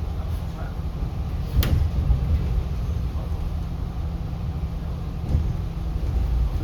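City bus under way, its engine and road noise making a steady low rumble heard from inside the cabin, with one sharp knock about a second and a half in.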